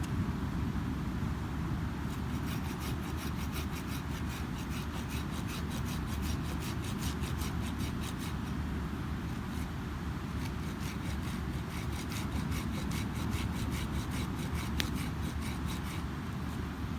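Wood campfire crackling with a dense run of small snaps, thinning out near the end, over the steady low rush of ocean surf.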